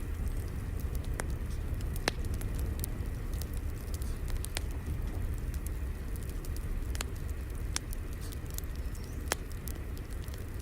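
Crackling fire: a steady low rumble with irregular sharp pops and snaps scattered through it, a few seconds apart.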